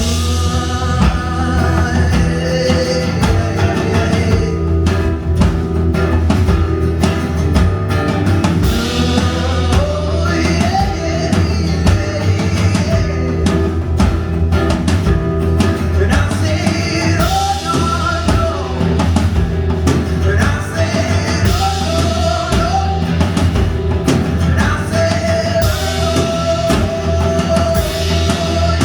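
Live rock-gospel band playing at full volume: drum kit beat, bass, keyboard and electric guitar, with a bending melody line over the top.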